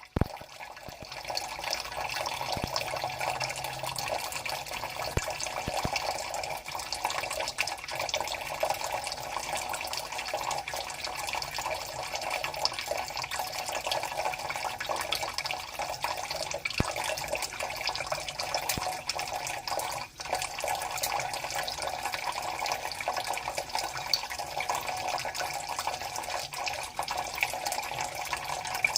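Water running steadily from a tap into a sink, with small splashes and drips.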